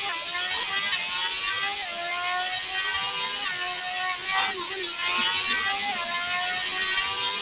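Superbike engine running at high revs, its pitch climbing just before and then holding high with small shifts in pitch, as under hard acceleration.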